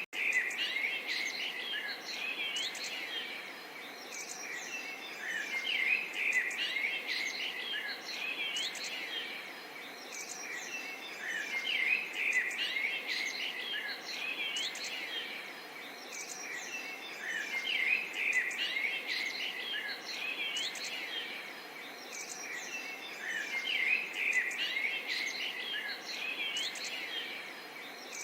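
Small songbirds chirping and twittering over a faint, steady babble of water. The same stretch of birdsong comes round again about every six seconds, as in a loop.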